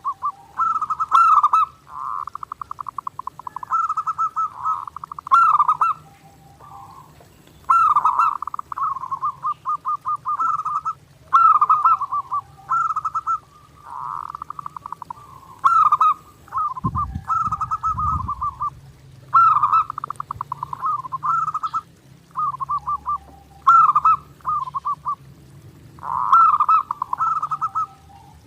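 Zebra dove (perkutut) cooing over and over: phrases of fast rolling trills ending in a lower coo, one every couple of seconds. A brief low thump about halfway through.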